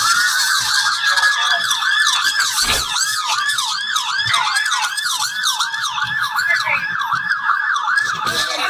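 Police car siren sounding in a fast yelp: quick rising-and-falling sweeps, about three a second, repeating steadily.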